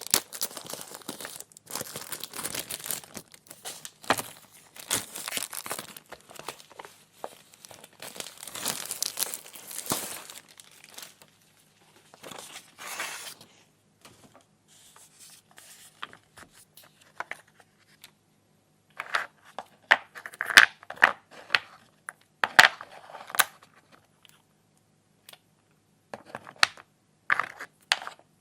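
Packaging being crinkled and torn open by hand, dense crackling for the first half. It thins out into a scatter of sharp clicks and taps in the second half.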